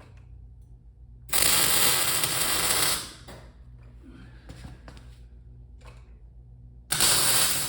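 Two welds on a small scrap-metal sculpture, each a steady sizzling arc of about a second and a half, starting about a second in and again near the end, with a low steady hum between them.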